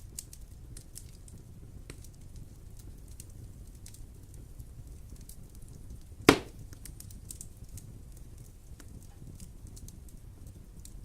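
Wood fire in a fireplace burning, with a low steady rumble and scattered small crackles, and one loud sharp pop a little past the middle.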